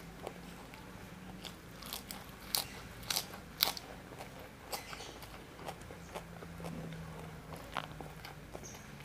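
Close-up mouth sounds of a person chewing a hand-fed mouthful of rice and spicy salted fish, with a cluster of sharp crunches about two and a half to four seconds in.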